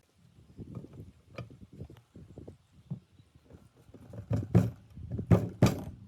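A run of irregular knocks and clunks of hard objects being handled and set down. They are light at first, then louder from about two-thirds of the way in, ending with three sharp strikes.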